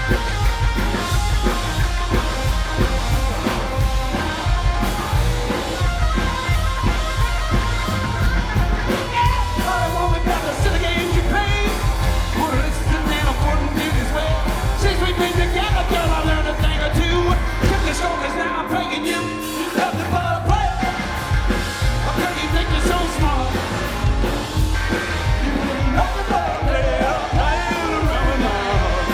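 Live rock-and-roll band playing a song with a lead singer, drums, bass and guitar. The bass and drums drop out for about two seconds roughly two-thirds of the way through, then come back in.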